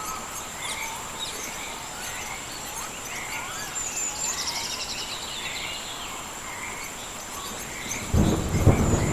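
Rainforest rain ambience: steady rain hiss under a continuous high insect whine, with repeated short chirping calls and a brief pulsed insect trill in the middle. About eight seconds in, a loud, deep thunder rumble breaks in.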